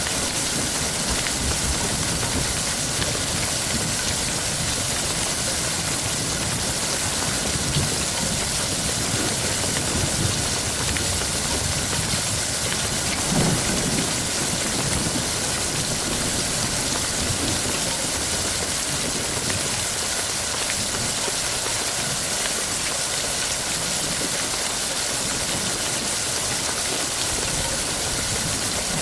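Heavy rain falling steadily, a dense even hiss, with low thunder rumbling underneath and one stronger rumble about halfway through.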